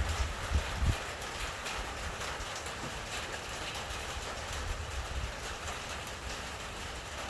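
Steady rain falling hard in a thunderstorm, with wind gusts buffeting the microphone as low rumbling thumps, strongest in the first second.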